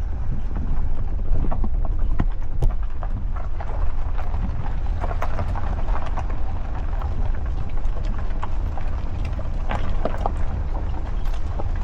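A vehicle driving along a rough forest dirt road, heard from inside: a steady low rumble with frequent irregular knocks and rattles as it goes over bumps.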